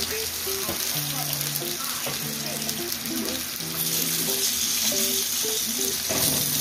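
Chicken pieces frying in hot oil in a frying pan, a steady sizzle throughout, with background music of held, stepping notes playing underneath.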